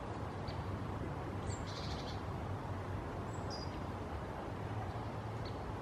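Outdoor ambience: a steady low hum with a few short, high bird chirps scattered through, among them a brief trill about two seconds in.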